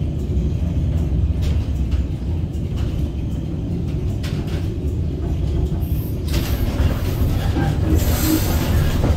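A vintage tram running on its rails, heard from on board as a steady low rumble. About six seconds in, a higher hissing noise joins it and lasts for a few seconds.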